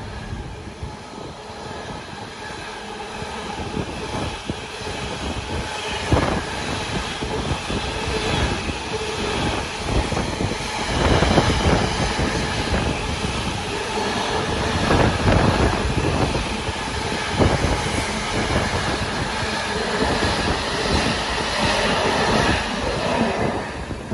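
Intermodal container wagons of a freight train running past at speed, with repeated clacks of wheels over the rail joints. The noise drops away near the end as the last wagon clears.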